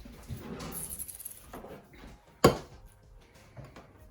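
Kitchen handling noises: scraping and rustling, then one sharp knock about two and a half seconds in.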